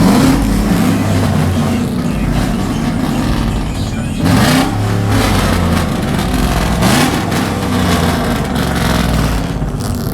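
Vehicle engines running and revving loudly, the pitch rising and falling, with a surge about four seconds in.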